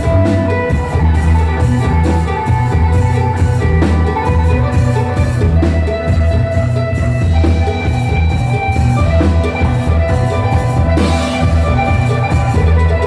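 Phin, the Isan plucked lute, playing an improvised melody over a backing track with a heavy bass and a steady drum beat.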